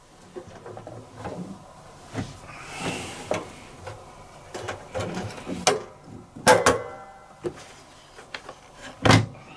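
Scattered clicks and knocks with a brief rustle, from damp laundry and the lid or drum of a top-loading washing machine being handled. The loudest knocks come about six and a half seconds and nine seconds in.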